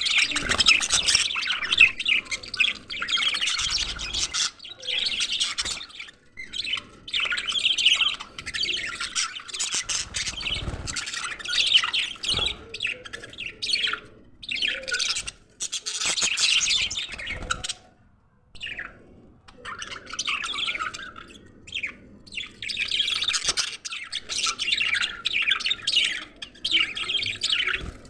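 A flock of budgerigars chattering and chirping, a dense warbling that comes in bouts, with a brief lull about two-thirds of the way through.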